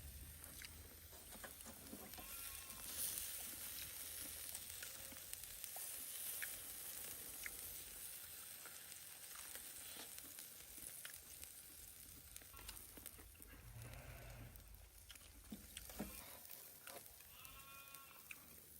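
Faint sizzling of a steak over a wood fire, with scattered crackles and pops. Twice, about three seconds in and again near the end, a short wavering animal-like call sounds.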